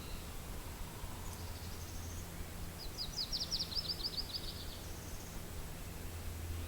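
A small songbird sings a fast trill of quick high notes lasting about two seconds, starting about three seconds in, with a few fainter high notes around it. Underneath is a steady low wind rumble.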